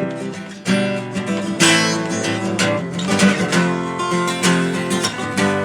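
Acoustic guitar strummed in a steady rhythm, playing chords as an instrumental introduction.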